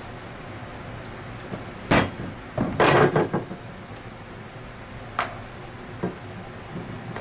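Tools and small metal parts handled on a workbench: a sharp clink about two seconds in, a short clatter just after, then two lighter clicks.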